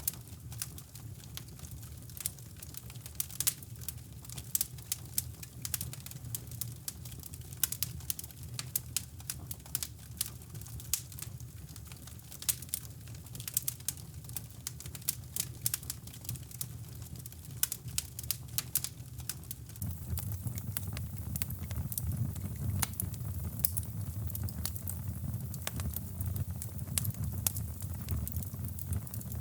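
Wood fire crackling in a fireplace: irregular sharp pops and snaps over a steady low rumble of brown noise, which grows louder about twenty seconds in.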